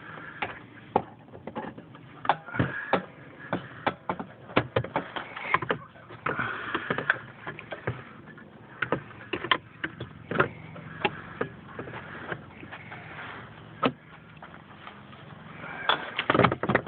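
Irregular sharp clicks and knocks of tools and parts being handled during work on a snowmobile, with a quick run of louder knocks near the end.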